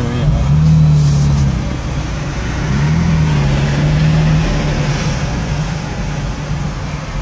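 BMW M4 F82's twin-turbo straight-six running loudly, its pitch rising and holding twice in the first half, then settling lower and more uneven.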